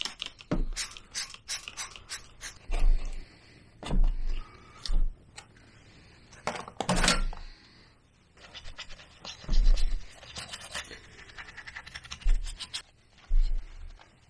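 Irregular scrubbing and scraping strokes with a few knocks, from parts of a scooter's CVT transmission being cleaned by hand.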